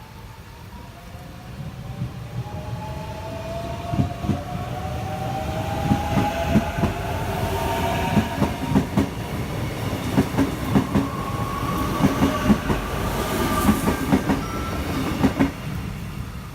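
Train passing on the rails, growing louder over the first few seconds, with wheels clicking rhythmically over rail joints and a whine that rises slowly in pitch.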